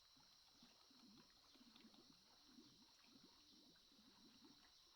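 Near silence: a faint background with a steady high-pitched hiss and soft, irregular low sounds scattered throughout.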